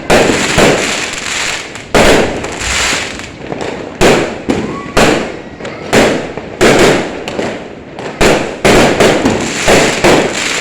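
Fireworks going off overhead: an irregular barrage of loud bangs, one to several a second, each followed by a short echoing tail.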